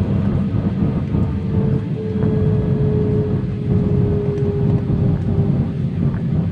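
Steady low rumble of jet airliner engines, with a faint tone that slowly falls in pitch.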